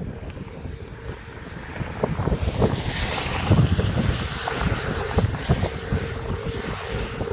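Wind buffeting the microphone in uneven low rumbles. A stronger gust brings a hissing rush about two and a half seconds in, which eases off toward the end.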